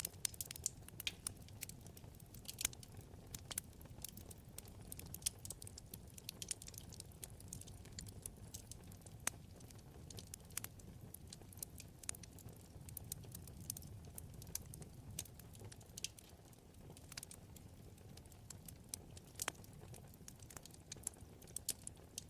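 Wood fire in a fireplace crackling: irregular sharp pops and snaps over a low steady rumble of flames.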